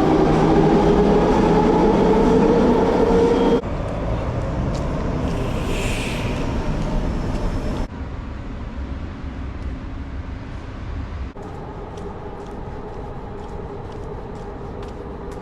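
City traffic sounds in a run of short clips that cut off abruptly every three to four seconds. The loudest, first clip is a vehicle running with a steady whine of several tones. A brief hiss comes about six seconds in, and light ticks in the last clips.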